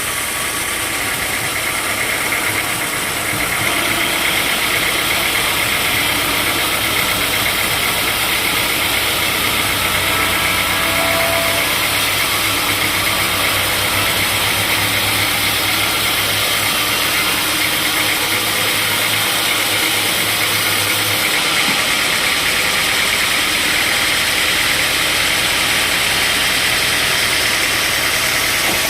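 Sawmill machinery running steadily, a loud continuous mechanical noise. A low hum under it drops away about three-quarters of the way through.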